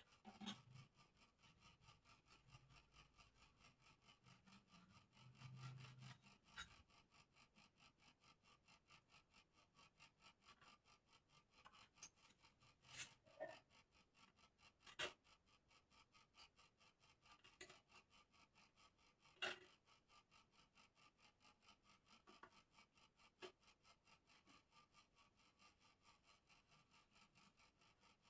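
Faint, rhythmic rubbing of sandpaper being worked over a bird-cage part, at about three to four strokes a second, with a few sharp ticks now and then.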